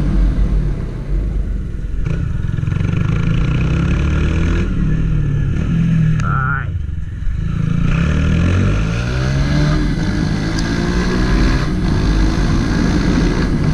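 Honda CG 160 Titan motorcycle engine running under way. Its pitch rises and falls with the throttle and gears, drops off about six seconds in, then climbs again as it accelerates.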